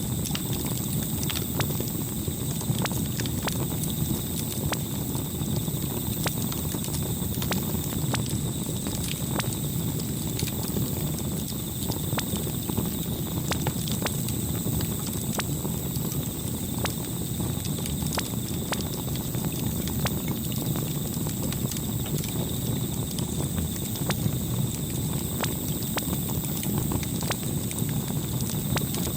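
Campfire burning with a steady low rumble and irregular sharp crackles and pops.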